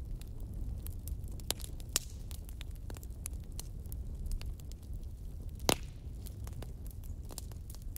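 Wood fire burning with a steady low rumble and frequent sharp crackles and pops; the loudest pops come about two seconds in and just before six seconds.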